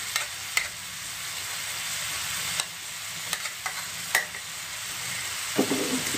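Spiced chilli paste and water sizzling steadily in a nonstick wok as julienned carrots are spooned in, with several sharp clicks of the spoon against the plate.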